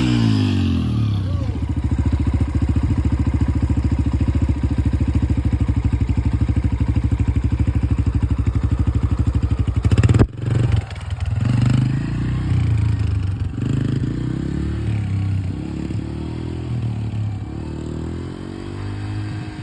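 Dirt bike engine running steadily, then a loud knock with a brief drop-out about halfway through, after which the engine rises and falls in pitch over and over as the throttle is worked, getting somewhat quieter near the end.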